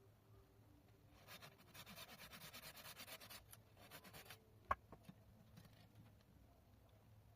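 Faint scraping, rapid rubbing strokes for about two seconds, then a shorter burst, followed by a single sharp click.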